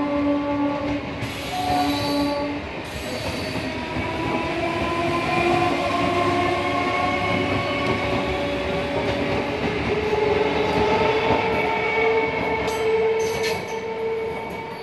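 Indian Railways electric multiple unit (EMU) local train passing: a continuous rumble of wheels on the rails with shifting whining tones. A horn-like steady tone sounds at the start and stops about two and a half seconds in. Rail clicks come near the end as the last coaches go by and the sound fades.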